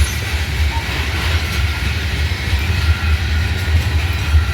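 Freight cars of an intermodal train rolling past, with a steady low rumble of wheels on rail.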